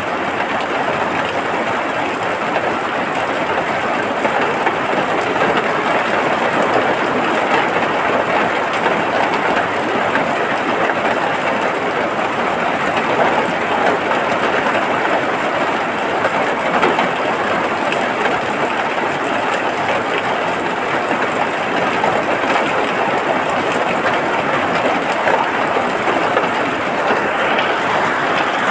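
Steady rain falling, a dense even hiss with fine crackle that does not let up.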